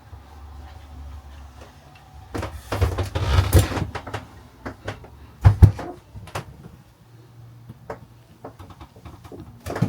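Handling noises in a small room: a rattling clatter a couple of seconds in, then two loud sharp knocks about halfway, with a few lighter clicks after.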